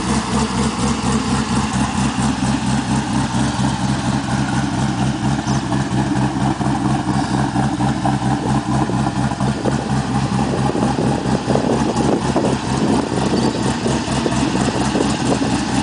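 Twin-turbocharged LS1 5.7-litre V8 idling steadily with an even, pulsing exhaust note.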